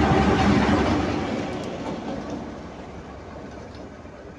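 GMCU-15 diesel locomotive running light along the track, its engine loud at first and then fading over about two seconds as it moves away.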